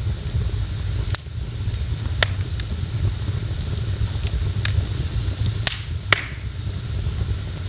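Wood fire in a fireplace crackling, with a handful of sharp pops at irregular intervals over a steady low rumble; the loudest pops come close together past the middle.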